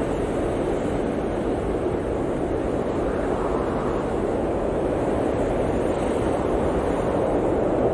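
Blizzard wind blowing steadily, a dense low rushing noise that swells a little about three seconds in.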